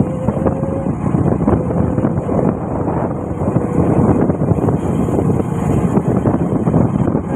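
Motorcycle running at a steady speed while being ridden, with wind buffeting the microphone and a faint steady engine tone under the noise.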